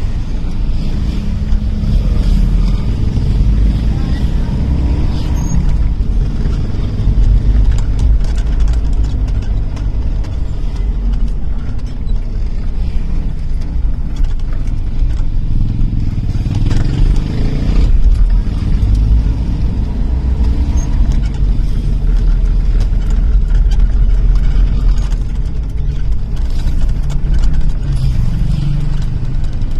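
Toyota Tamaraw FX's 5K 1.5-litre four-cylinder petrol engine running under way, a steady low drone whose pitch rises and falls a few times with the throttle.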